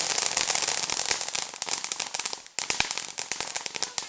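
Firecrackers popping in rapid succession, many sharp bangs a second like a lit string of firecrackers. There is a brief break about two and a half seconds in, then a further run of pops that thins out and fades near the end.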